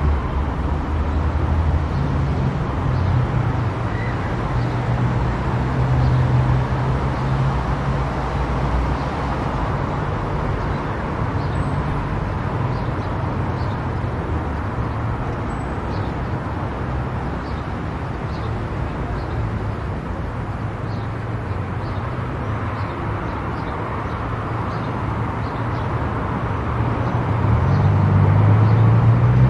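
A car driving on a highway: steady road and tyre noise with a low engine hum. Near the end the engine note rises as the car speeds up.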